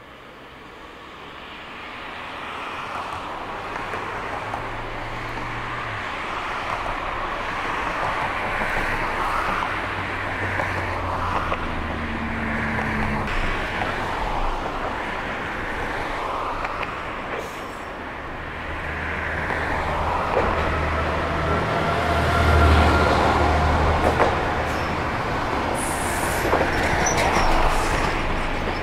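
Isumi Railway diesel railcar approaching on the line: a low engine drone and the running noise of the wheels on the rails grow steadily louder as it comes closer.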